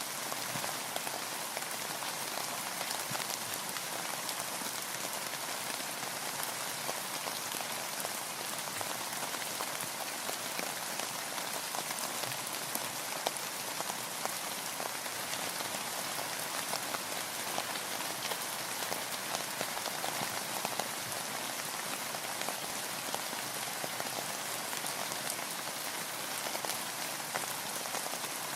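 Steady rain falling, with a dense patter of close individual raindrops ticking throughout.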